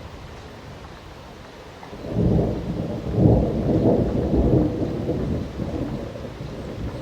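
Thunderstorm: steady rain, with a loud, deep roll of thunder breaking in about two seconds in, peaking a second or two later and slowly rumbling away.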